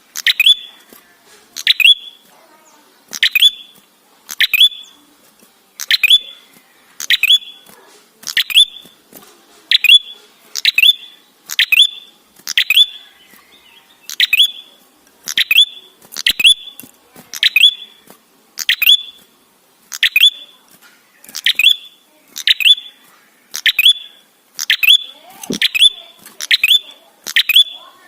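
A tailorbird (the red-headed prenjak) calling over and over, a sharp downslurred note repeated about once a second, some given in quick pairs, coming faster near the end. It is a lure recording meant to draw other prenjak into calling.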